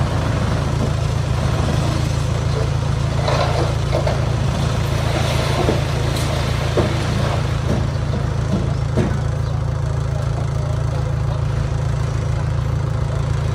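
Heavy-equipment diesel engine running steadily at a low, even pitch, with a few faint knocks and rattles near the middle.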